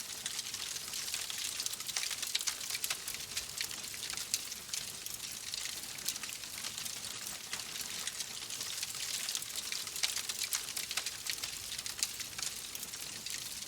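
Wood fire crackling in a fireplace: a steady hiss with dense, irregular pops and snaps.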